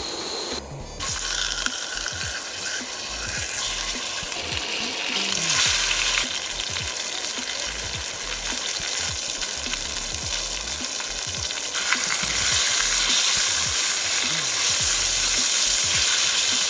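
Food frying in a hot cast-iron pan: a dense, steady sizzle full of small crackles and pops, which grows louder about five seconds in and again about twelve seconds in.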